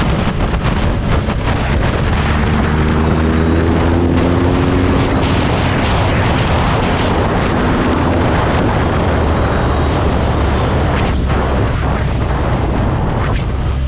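Heavy wind buffeting on the microphone while a BMW R nineT Urban G/S motorcycle rides along. The bike's boxer-twin engine note rises slightly as it pulls, from about two seconds in until it fades into the wind about eight seconds in.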